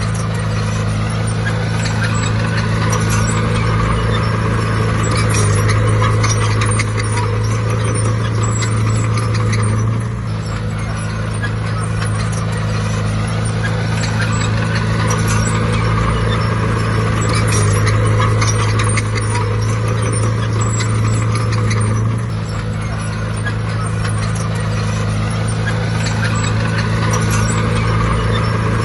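Heavy earthmoving machinery's diesel engine running steadily under load with a metallic clatter. The engine note drops briefly about ten seconds in and again about twenty-two seconds in, then picks back up.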